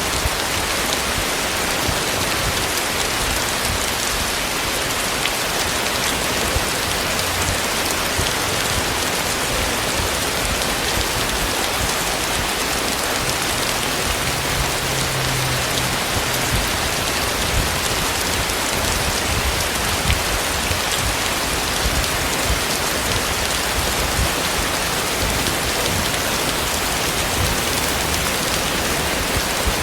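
Heavy rain falling steadily, a dense even hiss with occasional sharper drop hits.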